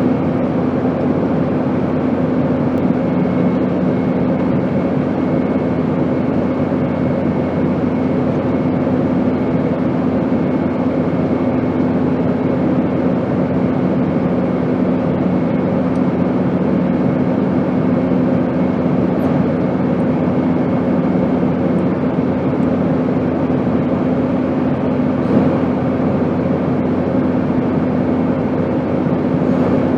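Steady airplane noise: an even rushing drone with a low hum held throughout. A second, lower hum comes in a few seconds in and fades out past the middle.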